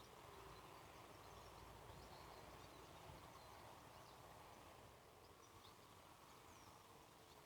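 Near silence: faint outdoor background hiss with a few faint, short bird chirps, mostly in the second half.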